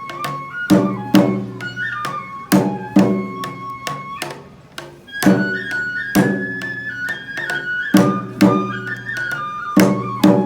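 Shinto kagura music: a high bamboo flute plays a held, stepping melody over sharp drum strikes at an irregular beat, roughly one or two a second.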